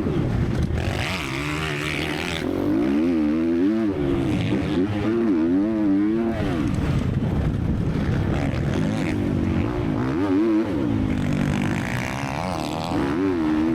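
Triumph TF 250-X four-stroke motocross engine revving hard and easing off again and again, its pitch rising and falling with throttle and gear changes. There is a rushing hiss about a second in.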